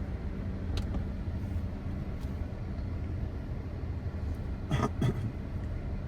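Toyota Corolla GLi car engine idling steadily with a low hum. There is a light click about a second in and two sharp knocks around five seconds in.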